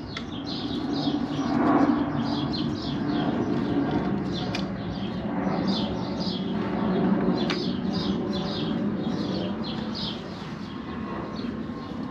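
Small birds chirping in quick repeated chirps, about three or four a second, over a steady low hum. A couple of sharp clicks come through, about 4.5 and 7.5 seconds in.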